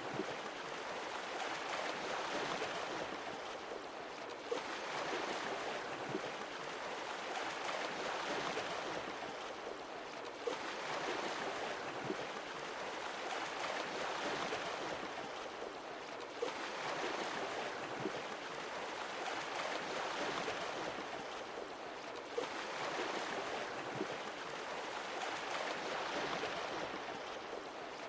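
Sea waves washing on a shore, each one coming in with a sudden rush and a hiss that slowly fades, about every six seconds.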